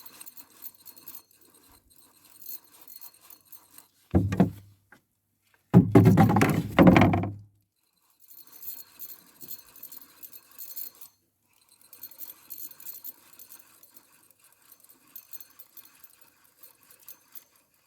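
Fishing reel being wound in short spells, a faint crackly ticking, with two loud bumps of rod-and-line handling noise about four and six seconds in.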